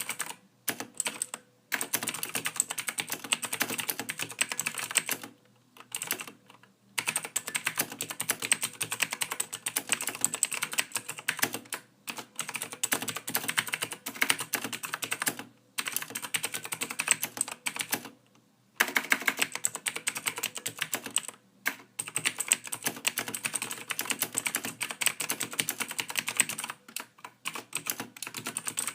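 Typing on a computer keyboard: rapid runs of key clicks in long bursts, broken by short pauses of under a second to about a second and a half.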